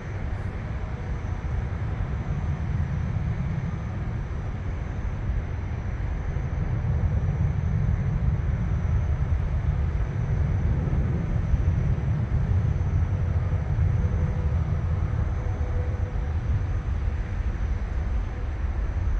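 Airplane passing overhead: a steady low rumble of jet noise that grows a little louder about a third of the way in and then holds.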